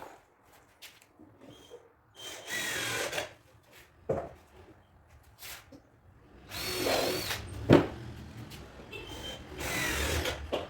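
Cordless drill driving screws into MDF in three short runs, its motor whine rising and falling in pitch, with a few sharp knocks in between.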